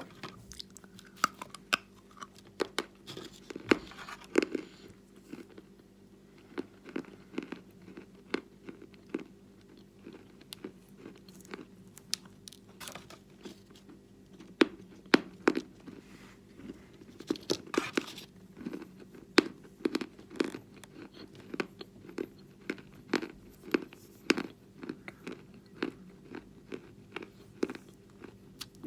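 Person biting and chewing lumps of natural chalk close to the microphone: irregular crisp crunches, sometimes several in quick succession, over a faint steady hum.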